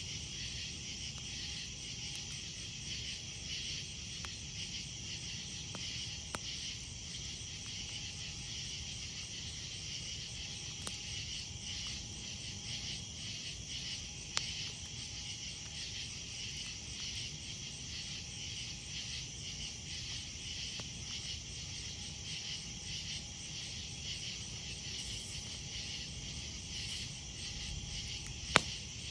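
Night insects chirping in a steady, pulsing chorus over a campfire, with a few sharp pops from the fire, one about halfway and a louder one near the end.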